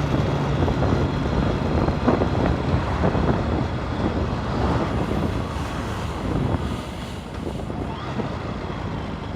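125cc motorcycle engine running at low speed, with wind rumbling on the action camera's microphone; the sound eases off gradually.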